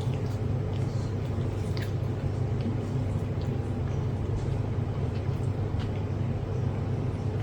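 A steady low hum runs throughout, like a room machine. Over it come a few faint, short clicks and smacks from someone eating.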